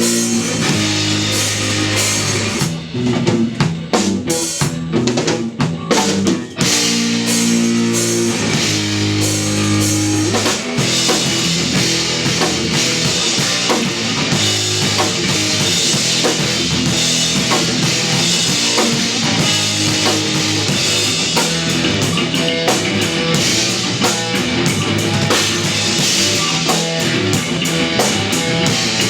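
Live instrumental post-rock from an electric guitar, electric bass and drum kit; sustained bass and guitar notes over the drums in the first third, then a denser, fuller passage from about ten seconds in.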